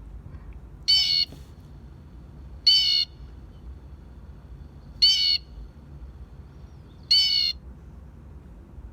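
Blue jay calling four times, each call short and loud, spaced about two seconds apart.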